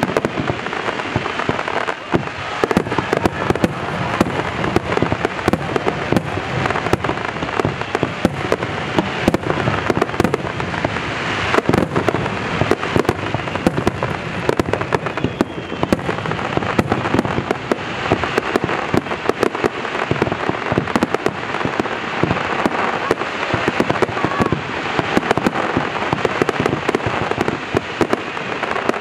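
Fireworks going off in a dense, unbroken barrage of bangs and crackling, from aerial shells and underwater fireworks bursting at the surface of a lake.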